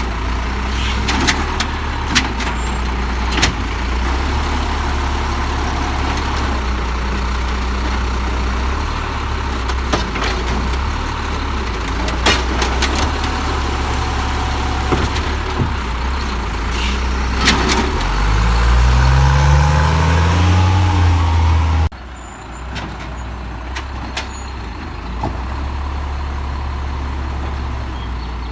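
Diesel engine of a Peterbilt 320 automated side-loader garbage truck idling, with scattered sharp clanks and knocks. About 18 seconds in the engine revs up, rising in pitch for a few seconds, then cuts off abruptly to a quieter steady idle.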